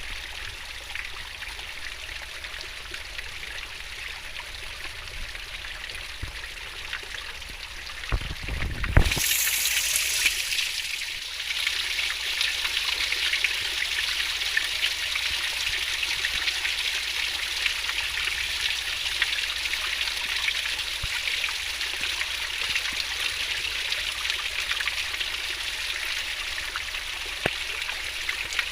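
River water flowing fast and babbling over stones in a steady rush. About eight seconds in there is a brief low bump, and after it the water runs louder.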